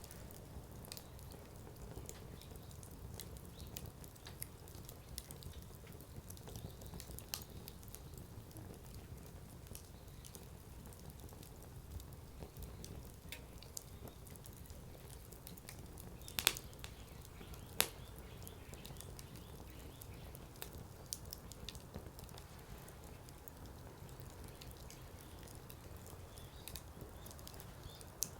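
Wood campfire crackling, with frequent small snaps and two louder pops about two-thirds of the way through, over a steady low rumble of the burning fire.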